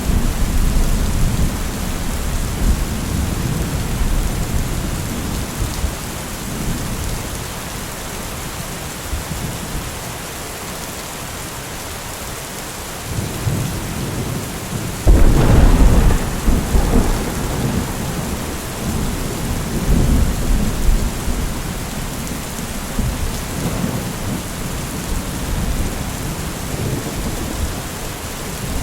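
Steady heavy rain hissing, with rolling thunder. A rumble at the start dies away, then a sharp thunderclap comes about halfway through, followed by rumbling that trails off in a few waves.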